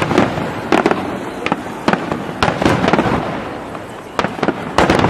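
Aerial fireworks going off in quick succession, a rapid run of bangs and cracks, each followed by a rumbling echo.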